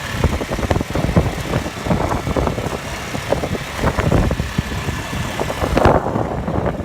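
Motor traffic and motorbike engine noise heard while riding, with irregular low thumps of wind buffeting the microphone.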